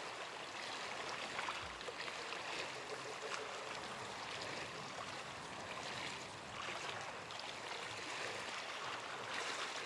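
Sea waves washing steadily onto the beach, an even hiss.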